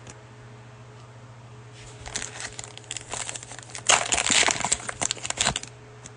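Cellophane wrapper of a Mosaic basketball cello pack crinkling as it is torn open and pulled off. The crinkling starts about two seconds in, is loudest for the second and a half before it stops, and ends shortly before the end.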